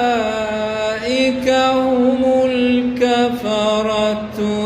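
A man reciting the Quran in a slow, melodic tajweed style, holding long notes with a gently wavering pitch and pausing briefly between phrases.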